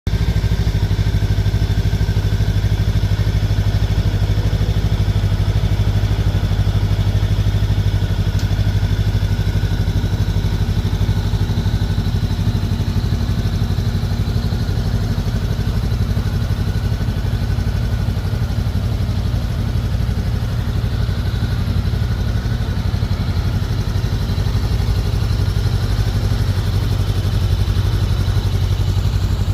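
Honda Rebel 500's parallel-twin engine idling steadily through its exhaust, with no revving.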